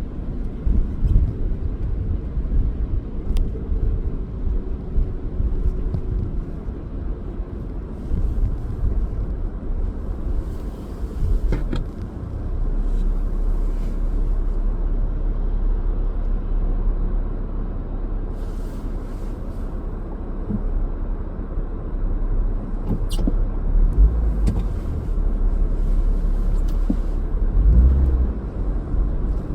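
Car being driven: a steady low rumble of engine and road noise, with a few faint clicks and brief passing hiss now and then.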